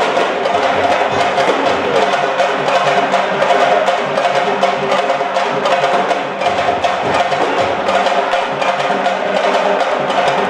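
Music led by fast, dense drumming, with steady held tones above it.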